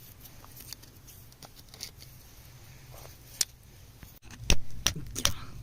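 Stones and gravel clicking and scraping as rough gemstones are dug out of stony soil by hand. Faint scattered clicks at first, then from about four and a half seconds in a quick run of louder clicks and knocks.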